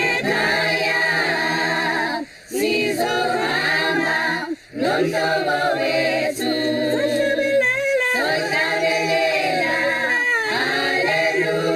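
Choir singing unaccompanied in several voice parts, with two short breaths between phrases early on.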